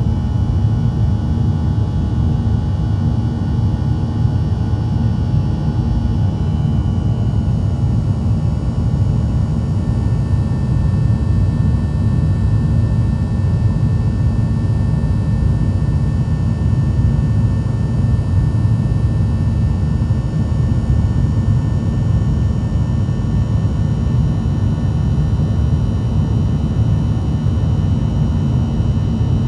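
Boeing 737-900's CFM56-7B turbofan engines and airflow heard from inside the passenger cabin as a loud, steady rumble with thin whining tones; some of the higher tones change about six seconds in.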